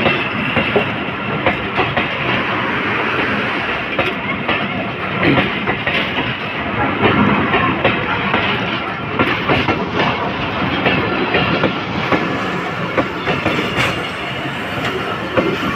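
Passenger train coaches rolling past close by, their steel wheels clattering over the rail joints in a loud, continuous, irregular clickety-clack.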